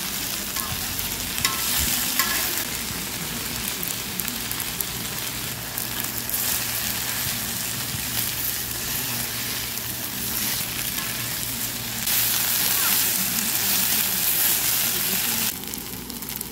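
Sundae and vegetables sizzling in a frying pan as a baek-sundae stir-fry is cooked and stirred. The sizzle grows louder about two-thirds of the way through, then drops back near the end.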